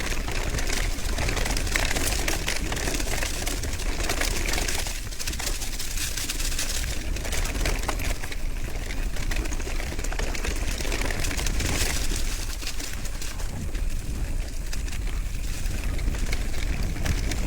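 Steady rush of wind on the microphone, with road noise, from a bicycle descending fast.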